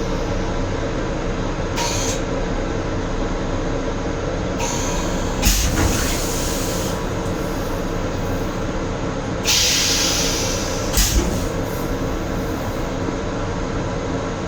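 Steady rumble inside a Metro-North M7 electric railcar, broken by several short bursts of hiss and sharp thumps about five and a half seconds in and again, doubled, near eleven seconds.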